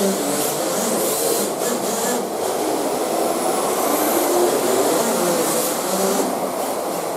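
COX TD .051 glow engine on an RC drift car, buzzing at high speed, its pitch wavering up and down with the throttle.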